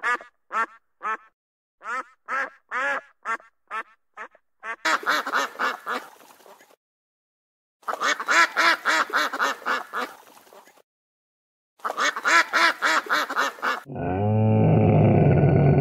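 Ruddy shelduck giving repeated honking calls, about three a second, then three faster runs of duck calls. In the last two seconds a camel gives a loud, low groaning call that grows louder.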